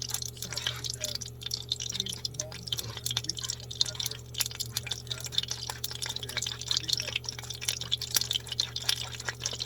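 Eggs being beaten with a fork or whisk in a bowl: a quick, irregular run of wet clicks and taps against the bowl, with a steady low hum underneath.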